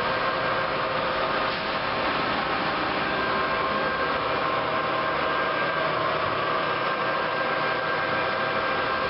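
Nardini lathe running, a steady machine whir with several steady high tones and no change in speed.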